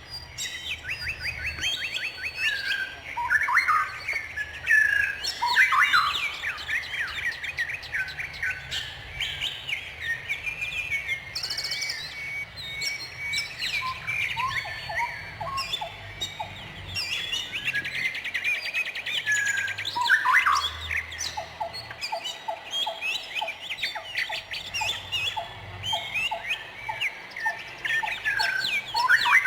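Several songbirds chirping and singing at once, with many short chirps and rapid trills overlapping. In the second half a lower note is repeated a few times a second beneath the chorus.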